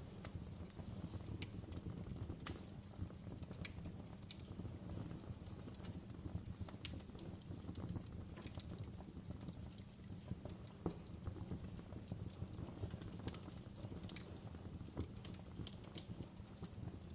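Wood fire crackling in a fireplace: a steady low rumble with irregular sharp pops and snaps scattered throughout, one louder snap near the middle.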